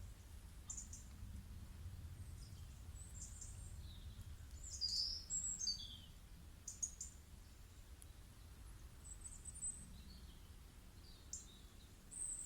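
Birds chirping faintly, with short high calls scattered throughout and a quick run of descending chirps about five seconds in, over a low steady hum.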